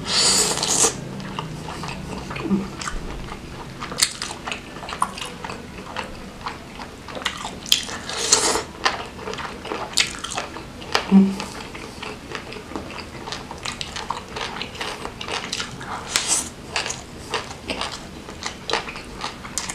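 Close-miked chewing and wet mouth smacks of a person eating rice mixed with beef curry and fatty beef scraps by hand, with many scattered sharp smacks and clicks.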